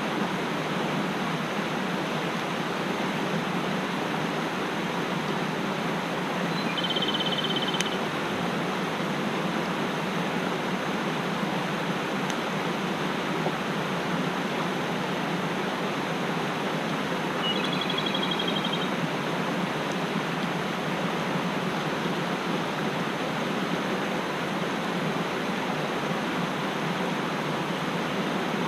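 Mountain stream rushing steadily. A small bird gives a short high trill twice, once about seven seconds in and again a little past the middle.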